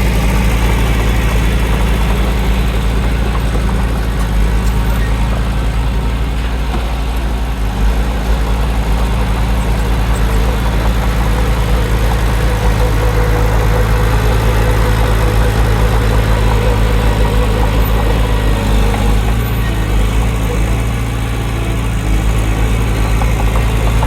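Heavy diesel engine of earthmoving machinery running steadily with a deep, constant drone, dipping slightly in level about twenty seconds in.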